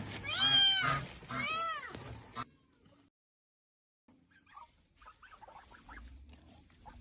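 Cat meowing twice in a row, each meow rising and then falling in pitch. The sound then cuts off suddenly, leaving silence and then faint scattered rustling.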